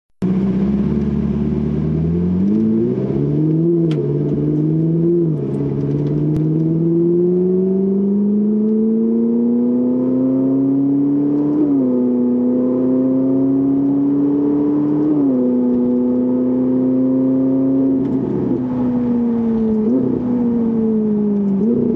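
Ferrari 458 Italia's V8 through an aftermarket valvetronic cat-back exhaust, pulling away and accelerating: the note idles briefly, climbs steadily and drops sharply at two upshifts partway through. It then falls as the car eases off near the end.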